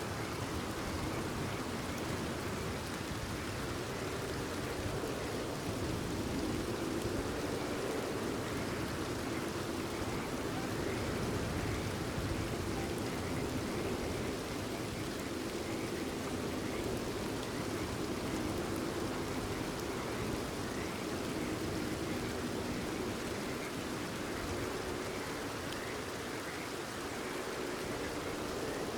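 Steady rain falling, with frogs calling faintly under it.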